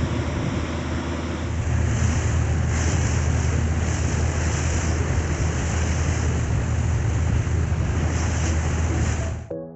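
Wind buffeting the microphone over the steady low rumble of a ferry under way, with water rushing past the hull; it cuts off suddenly near the end.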